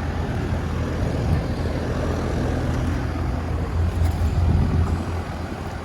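2020 Armstrong Air 3-ton central air conditioner condenser running: a steady low hum from the compressor under an even rush from the condenser fan.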